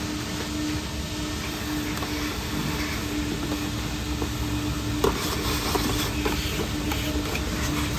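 Steady machine hum and hiss with a constant low tone, and scattered light knocks and rattles from about five seconds in.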